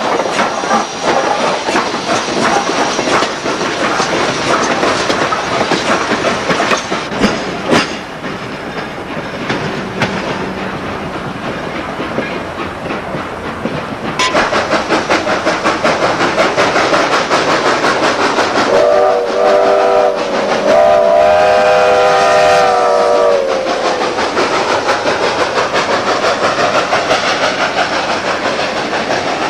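Steam-hauled excursion train running by, its wheels and cars clattering steadily over the rail joints, growing louder about halfway through. Past the middle the locomotive's steam whistle sounds: two short blasts and a longer one that drops in pitch as it ends.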